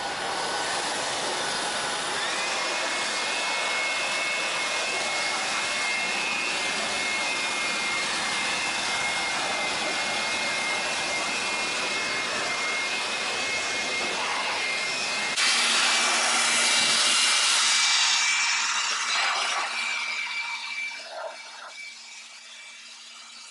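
Small electric air blower running, blowing water off a washed engine bay: a steady rush of air with a motor whine that rises in pitch about two seconds in. The sound changes abruptly about fifteen seconds in, then dies away over the last few seconds.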